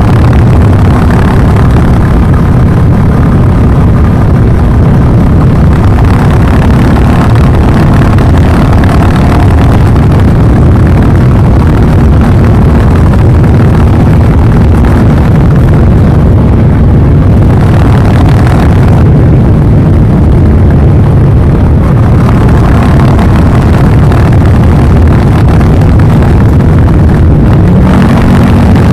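Royal Enfield Classic 350 single-cylinder engine running, its exhaust note loud and steady, the pitch shifting up a little near the end.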